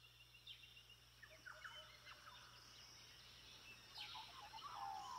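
Faint birdsong from several birds: many short chirps and falling whistles that grow louder toward the end.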